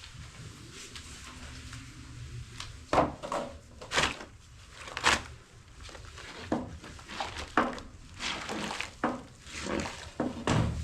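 A run of irregular knocks and clatters, about a dozen, starting about three seconds in, over a low steady hum.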